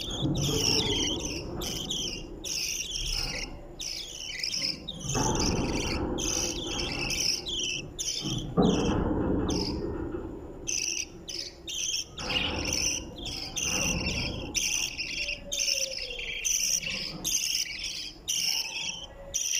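Budgerigars chirping in a rapid, continuous stream of short high calls. Low rumbling noise comes and goes underneath, with a sharp knock about eight and a half seconds in.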